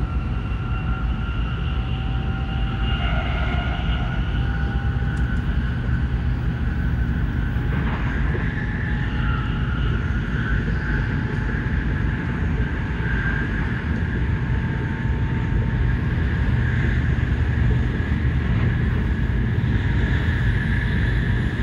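Cabin noise inside an N700S Shinkansen car at speed: a steady low rumble from the running train, with a whine that rises slowly in pitch.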